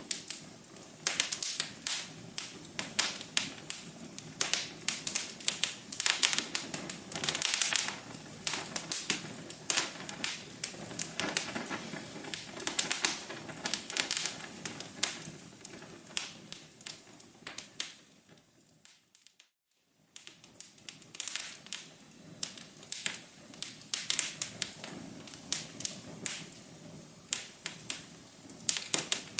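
Wood fire crackling in a fireplace: dense, irregular pops and snaps over a low steady hiss. The sound briefly fades out about two-thirds of the way through, then the crackling resumes.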